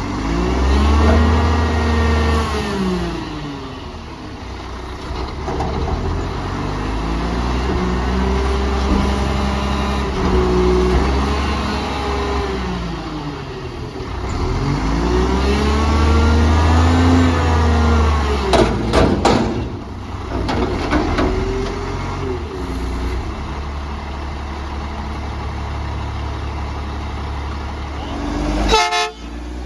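Garbage truck's diesel engine revving up and falling back four times, each rise held for a few seconds over a steady low rumble. Sharp metallic knocks come about two-thirds of the way through and again near the end.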